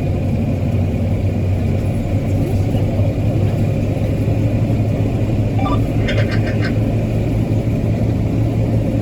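Transit bus running, heard from inside: a steady, loud low drone of the engine and its cooling fan. About six seconds in, a brief burst of rapid ticking or rattling rises over it.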